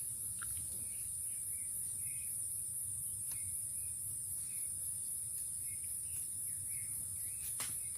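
Steady high-pitched insect chorus, with short chirps repeating every second or so and one sharp click near the end.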